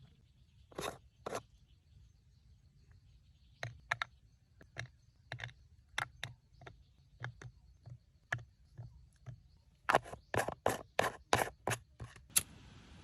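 Irregular sharp clicks and knocks, one or two a second, then a quicker run of about nine close together near the end.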